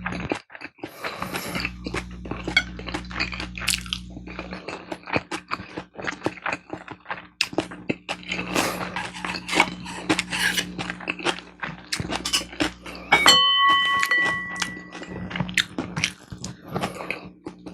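Close-miked eating: chewing and biting with many short, crisp crunches. About two-thirds of the way through comes a single bright ringing clink that fades over a second or so.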